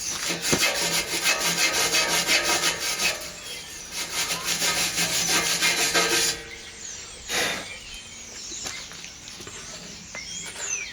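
Hand wire brush scrubbed rapidly back and forth over fresh steel welds, cleaning off the slag and spatter. The scrubbing stops about six seconds in, leaving a few lighter scrapes and one short stroke about a second later.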